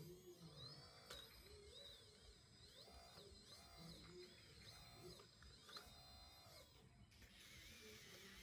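Small electric motor of an RC model whining in short spurts, its pitch rising and falling about once a second, heard faintly.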